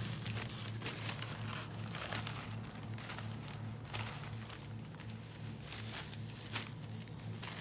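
Cotton saree fabric rustling and crinkling in irregular strokes as it is handled and unfolded, over a steady low hum.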